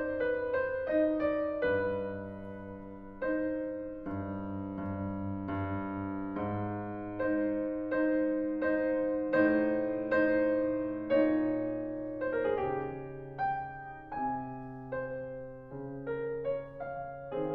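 Background piano music: a gentle melody of sustained notes over a soft bass line.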